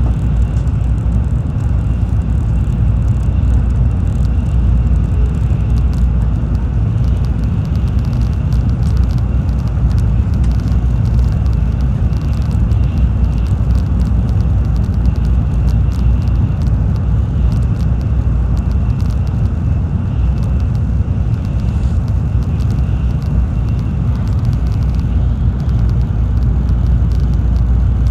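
Tokaido Shinkansen train running, heard from inside the passenger car as a steady low rumble, with a faint high tone that fades out near the end.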